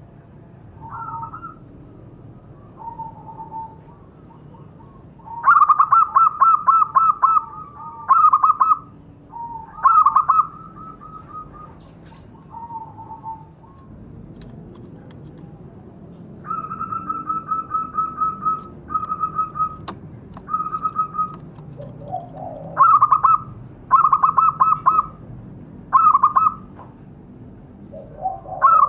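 Zebra doves (perkutut) cooing: repeated phrases of quick staccato coo notes, some loud and some softer, with short gaps between the phrases.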